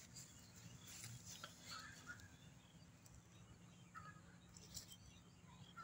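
Near silence with a few faint, scattered bird chirps.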